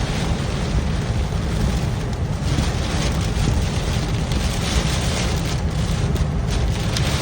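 Heavy storm rain hitting a moving car, with steady road and engine noise, heard from inside the car.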